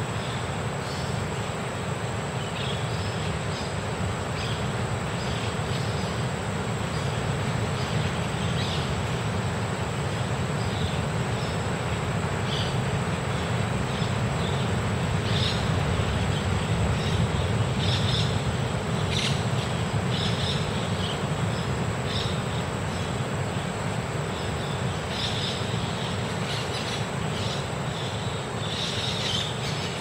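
Small birds chirping in short, scattered calls, more often in the second half, over a steady low rumble and hiss. A thin, steady high tone runs underneath.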